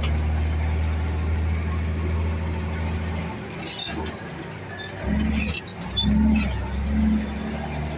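Tractor-trailer's diesel engine running heard from the cab, its note falling away about three seconds in and coming back in three short surges, as the driver changes gear with double clutching. A few sharp clicks come in the quieter middle stretch.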